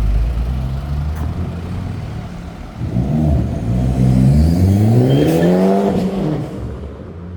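A car engine running, then pulling away hard about three seconds in, its pitch climbing steadily for about three seconds before the sound fades.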